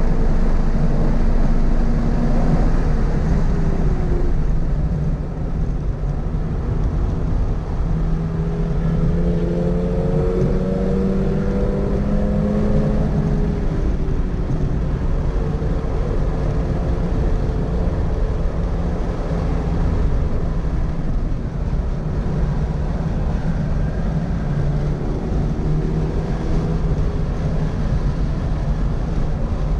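Toyota GR86's 2.4-litre flat-four engine driven hard on a race track, its pitch climbing under acceleration and dropping off when the throttle lifts, over a heavy rumble of wind and road noise. The pitch falls about 3 s in, rises for several seconds from about 8 s, and rises again near the end.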